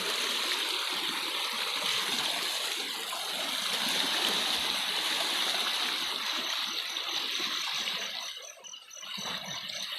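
Rushing, splashing river water, a steady hiss that eases for a moment near the end.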